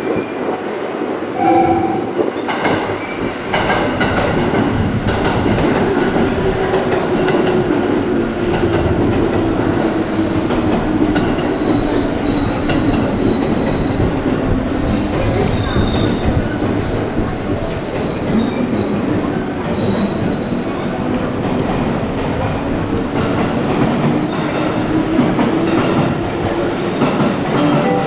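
Electric train running alongside the platform with a continuous rumble. A motor whine falls slowly, then rises again near the end, and high wheel squeal comes and goes in the middle.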